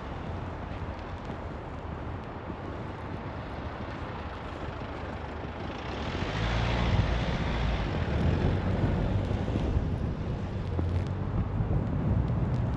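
A road vehicle passes on a snowy road about halfway through: its tyre hiss swells and peaks, then a low rumble carries on. Steady wind noise runs underneath.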